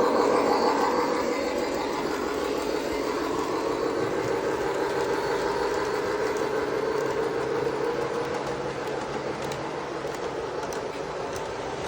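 O gauge model train running on its layout, the motor and wheels on the track making a steady hum and rumble that grows gradually quieter.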